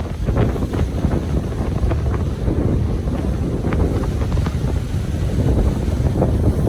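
Ocean surf washing and fizzing on a beach, with wind buffeting the microphone as a steady low rumble.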